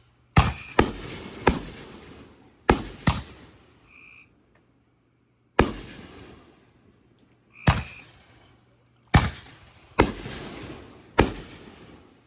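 Backyard consumer fireworks going off: about ten sharp bangs at irregular intervals, some in quick pairs, each trailing off in a fading rumble.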